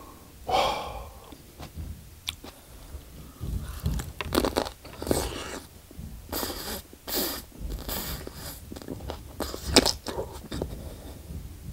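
Close-miked biting and wet chewing of a raw aloe vera leaf, gel and green skin together, in irregular loud smacks and squelches, most of them in the second half. A short voice sound from the eater comes about half a second in.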